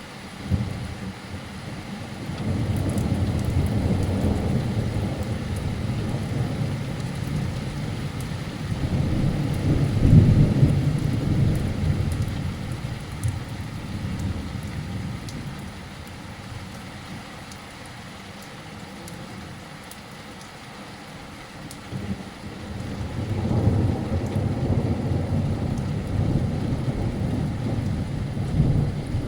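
Thunder rolling in two long rumbles over steady rain. The first builds about two seconds in and is loudest around ten seconds; after a lull, a second rumble builds a few seconds before the end.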